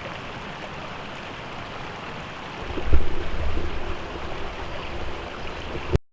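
Steady rush of flowing river water. A heavy low rumble joins about three seconds in, and the sound cuts off abruptly near the end.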